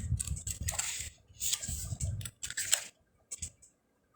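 Paper rustling and handling noise as pages of a small card-deck guidebook are turned: a few clustered rustles with dull thumps in the first couple of seconds, then two brief rustles.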